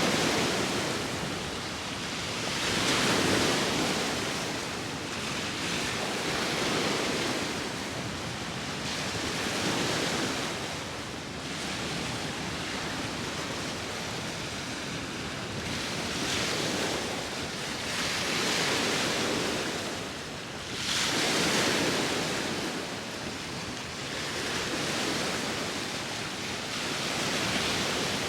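Sea waves breaking on the shore, the surf swelling and falling back every few seconds, with wind blowing over the microphone.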